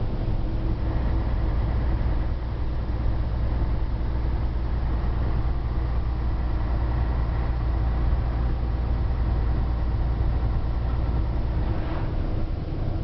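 Scania 113H truck's straight-six diesel engine running steadily under way with a deep drone. Its low note drops near the end.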